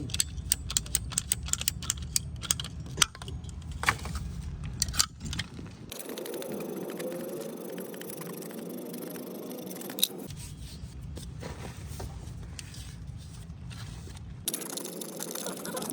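Rapid metallic clicking and scraping as PPR pipe and fittings are worked by hand, densest in the first few seconds and then thinning to scattered clicks over a steady hiss.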